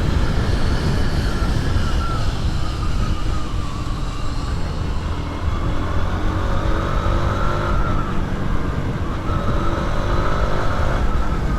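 Motorcycle engine running at a fairly steady road speed, with heavy low rumble from wind and road noise on a rider-mounted microphone.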